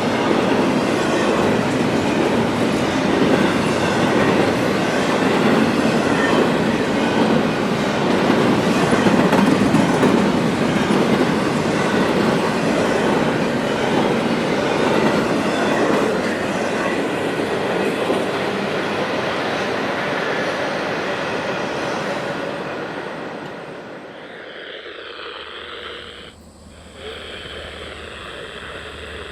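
CSX freight train rolling past, its railcar wheels clattering over the rails in a loud, steady rush. About three quarters of the way through the noise falls away as the train passes, leaving fainter train sounds.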